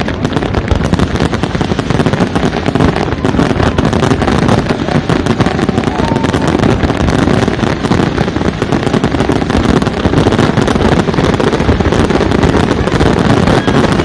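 Fireworks going off in a dense, continuous barrage, with bangs and crackle overlapping so closely that they merge into one steady rumble.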